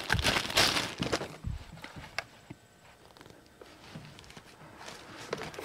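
Clear plastic bag crinkling as a trail camera is slid out of it. A few light clicks and handling knocks follow, among them a cable plug being pushed into the camera, then it goes almost quiet.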